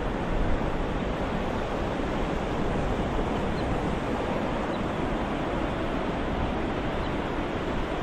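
Ocean surf as a steady wash of noise, even in level, with no distinct breaking waves.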